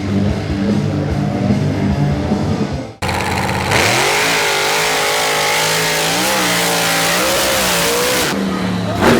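Mini monster truck engine running and revving, its pitch rising and wavering, in loud clips broken by sudden cuts about three seconds in and near the end.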